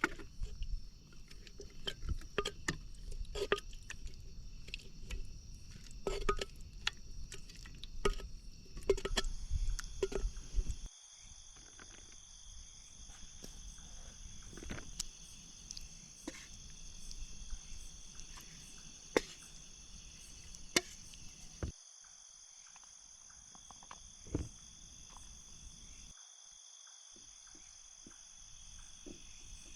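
Night insects, crickets or similar, chirring steadily in several high bands. Scattered clicks and knocks are heard over a low rumble for the first ten seconds or so; after that only occasional sharp clicks remain.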